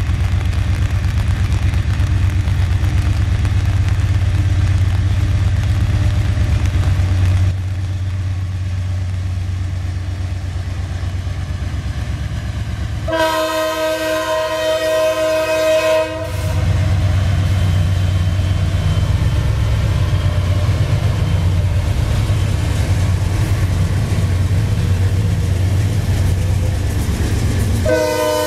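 Diesel freight locomotives working past with a steady low rumble. The lead locomotive's air horn sounds a chord of several notes for about three seconds midway, and starts again right at the end as the engines pass close.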